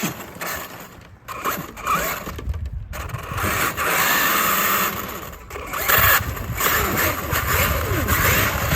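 Brushless electric motor of a Traxxas RC monster truck revving in repeated bursts, its whine rising and falling over a loud rushing noise, as the truck struggles to drive out of rough ground. The owner puts the struggle down to an oversized 26-tooth pinion costing torque.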